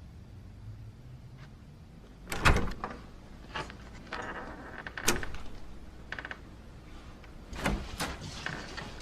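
A door being handled: a heavy thump about two and a half seconds in, then latch and handle clicks, a short creak, and another thump near the end.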